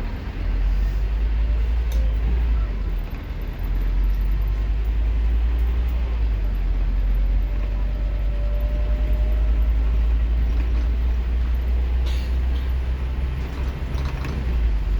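Scania K230UB bus's five-cylinder diesel engine pulling hard, heard from on board as a loud, steady low drone, with a brief dip in loudness about three seconds in, as at a gear change.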